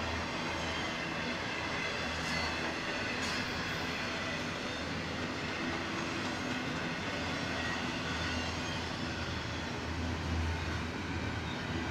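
Double-stack intermodal freight cars rolling past on the rails: a steady rumble of wheels on track with a low hum that swells and eases several times, as the tail end of the train goes by.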